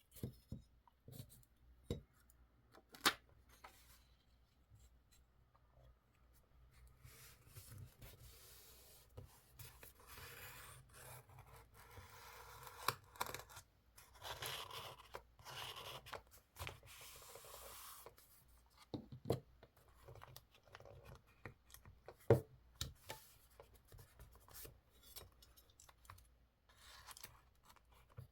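Paper being handled, torn and cut for scrapbooking, with a longer stretch of continuous paper tearing and rustling in the middle and sharp clicks and taps now and then.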